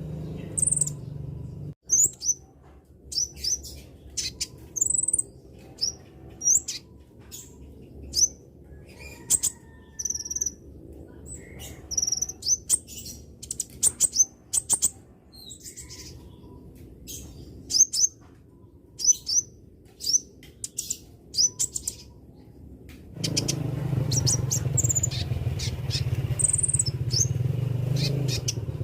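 Konin bird calling: a long run of short, sharp, very high chirps, single or in quick clusters, about one every second. A low steady hum sits under them at the start and comes back for the last few seconds.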